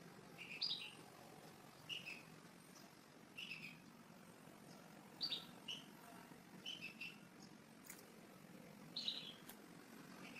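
Faint small-bird chirping: about six short clusters of quick high chirps, one every second or two, over a low steady background noise.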